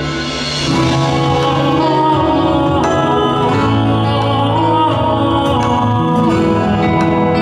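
Live concert music: a male voice singing held, vibrato notes over instrumental accompaniment.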